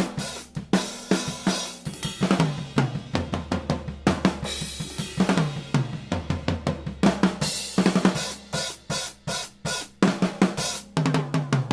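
Acoustic drum kit played in a fast, busy pattern: bass drum, snare, hi-hat and cymbals, with pitched drum hits that drop a little in pitch as they ring. Heard raw through a pair of AKG C-214 overhead microphones, with no processing.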